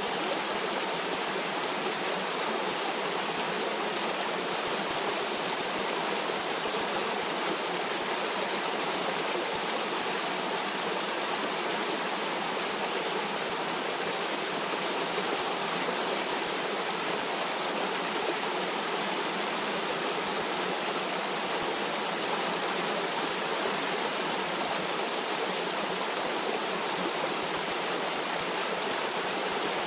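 Stream water rushing steadily over rocks, an even, unbroken splashing that does not change.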